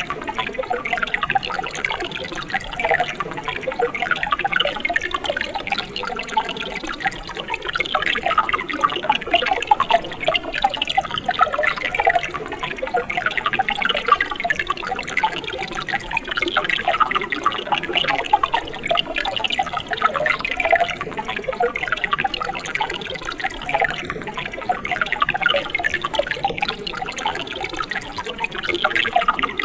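Water of a mountain stream flowing, a steady dense bubbling and gurgling that keeps on without pause.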